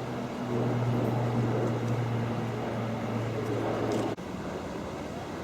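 Steady low engine hum, which cuts off abruptly about four seconds in, leaving a quieter background.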